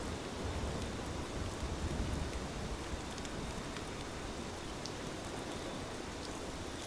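Steady rain, an even hiss with scattered drop ticks, swelling with a low rumble for the first couple of seconds.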